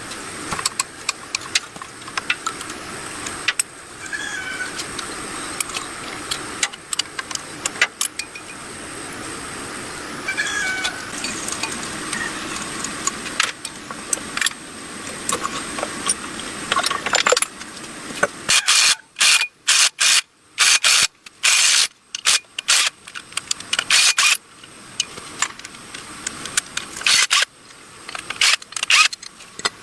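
Hand tools and metal engine parts clicking, clinking and tapping during restoration work on a small motorcycle engine. After about 18 seconds the clicks come in a quick, choppy run with sudden short silences between them.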